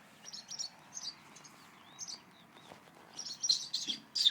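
Small birds giving short, sharp alarm calls in quick clusters, loudest near the end: parent birds scolding an intruder close to their nest.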